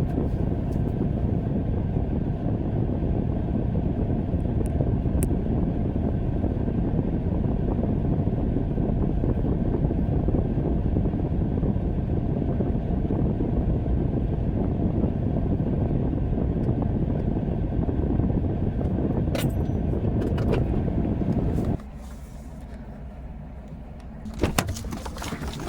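Pickup truck being driven, a steady rumble of engine and road noise. About 22 s in it stops abruptly, and a few clicks and knocks follow near the end.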